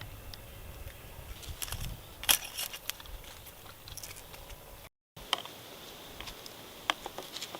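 Scattered small clicks and crackles over a faint background hiss, with a brief drop to dead silence about five seconds in where the recording cuts.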